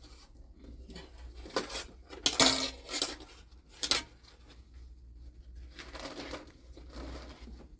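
Dishes and spoons clinking during a meal: a handful of short, sharp clinks and knocks in the first half, over a low steady hum.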